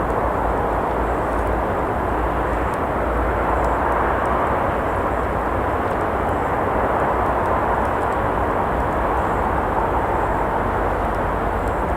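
Steady roar of traffic from a nearby road: a constant even rushing noise with a low rumble underneath.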